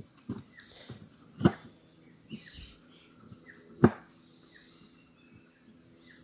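Crickets trilling steadily in the background, with short chirps repeating about once a second. Two sharp knocks come about a second and a half in and about four seconds in; the second is the louder.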